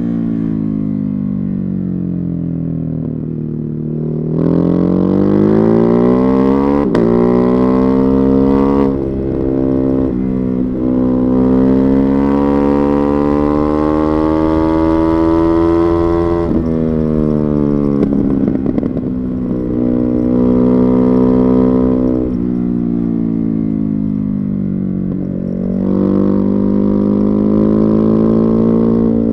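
Ducati Hypermotard 950's Testastretta 11° L-twin running through a Termignoni exhaust on the move. Revs fall off under closed throttle, then climb several times as the bike accelerates, with sudden drops in pitch at gear changes or when the throttle is rolled off.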